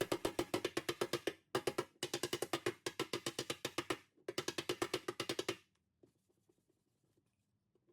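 Rapid light hammer taps on an aluminium car body panel, working out a dent, about eight taps a second in three runs with short breaks. The tapping stops a little over halfway through.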